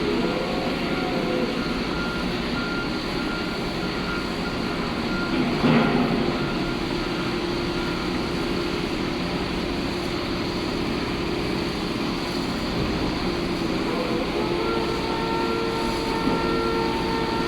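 Heavy diesel construction machinery running steadily, with a brief louder swell about six seconds in and faint steady tones toward the end.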